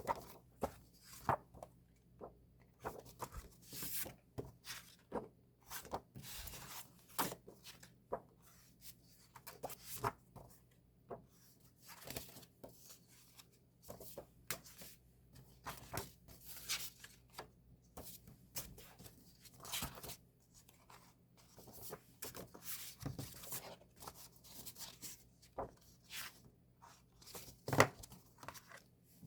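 The paper and plastic packaging of a K-pop album being opened and handled: scattered rustling, rubbing and light clicks, with one sharper knock near the end.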